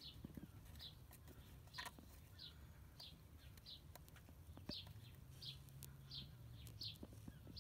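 Faint bird calls: one short falling chirp repeated steadily, about one and a half a second, over a low steady hum, with a few soft handling clicks.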